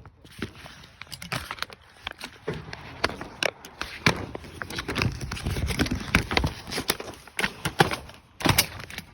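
Boat shrink wrap, heavy plastic sheeting, crinkling and crackling with many irregular snaps as it is pulled and broken apart.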